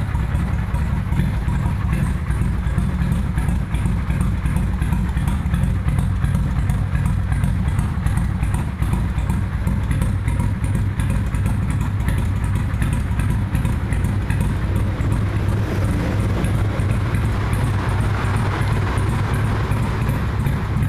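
Kawasaki VN800 V-twin motorcycle engine, fitted with a Hypercharger air intake, running steadily at idle.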